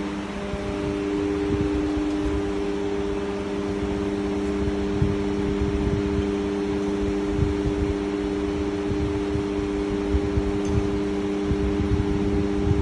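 Machinery running steadily: a constant hum with several fixed tones over a noisy, uneven low rumble.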